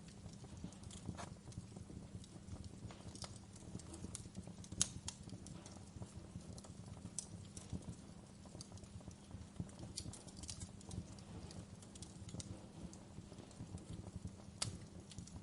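Wood fire burning, with irregular sharp crackles and pops over a low steady rumble of the flames; two louder pops stand out, about five seconds in and near the end.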